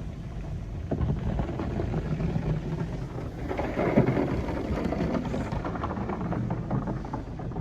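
Mark VII ChoiceWash XT automatic car wash running its soft-touch cycle: a churning wash of water and brush noise over a steady low machine hum, swelling about a second in and loudest around the middle.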